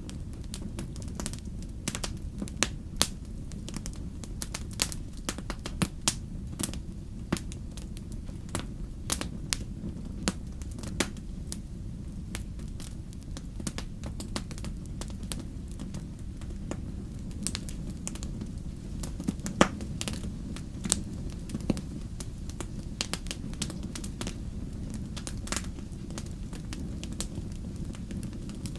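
Wood fire crackling in a fireplace: a steady low rumble of flame with irregular sharp pops and snaps, the loudest pop about two-thirds of the way through.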